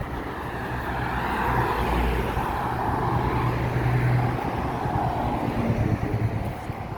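A motor vehicle passing by, its engine hum and rushing noise growing louder to a peak about four seconds in, then fading.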